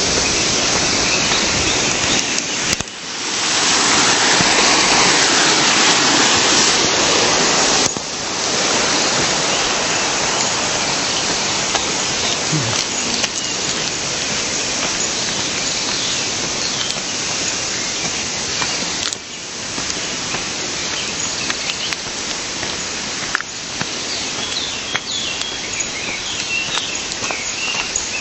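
Rushing water of a stream or small weir, a steady loud hiss, changing abruptly in level about 3, 8 and 19 seconds in.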